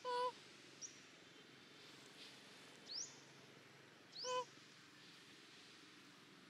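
A bird calling repeatedly in quick rising whistles. At the start and again about four seconds in, a whistle runs straight into a short, lower, steady note, the loudest sound here. Between the calls there is a faint steady outdoor hiss.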